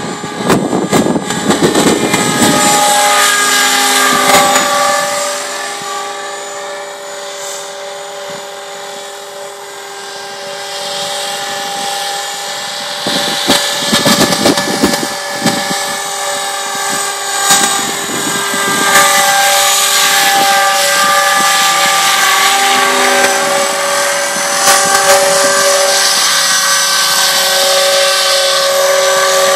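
Radio-controlled 500-size T-Rex helicopter in flight: a steady motor and rotor whine, with its pitch sliding up and down as it manoeuvres. It grows fainter for several seconds a few seconds in, then comes back louder.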